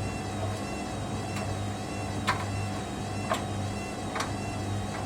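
Hoover Dynamic Next washing machine running mid-cycle: a steady motor hum with a sharp knock roughly once a second as the drum turns.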